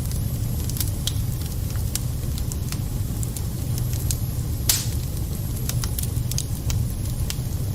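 Wood fire burning in a fireplace, crackling with scattered sharp pops and one louder pop a little past the middle, over a steady low rumble of the flames.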